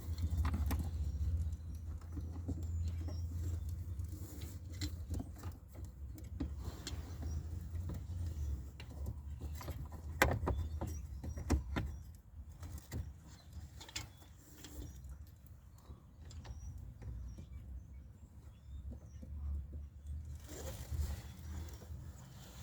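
Scattered small clicks and metal rattles of screws and a hand tool as a blend door actuator is screwed back into place under a truck's dashboard, with a low steady hum behind, strongest in the first several seconds; two sharper knocks come about ten and eleven seconds in.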